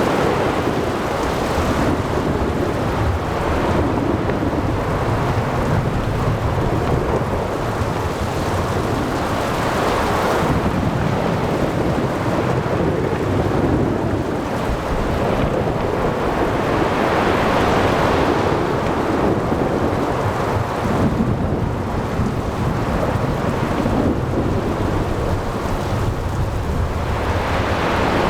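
Thunderstorm over the sea: low rolling thunder with steady rain and wind over breaking ocean waves, the noise swelling and easing every few seconds.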